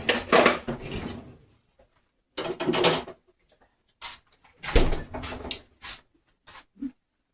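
Rummaging in a kitchen: three bouts of clattering and knocking as drawers and cupboards are opened and shut and things are picked up and set down, with a few small ticks near the end.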